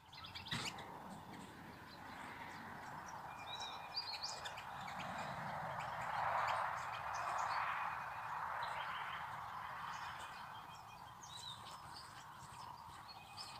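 Birds chirping, short high calls scattered throughout, over a steady hiss that swells and fades around the middle.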